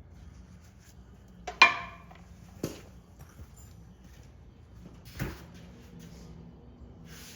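A few sudden metal clanks as steel parts and tools are handled during a bushing job. The loudest comes about a second and a half in and rings briefly; two smaller knocks follow.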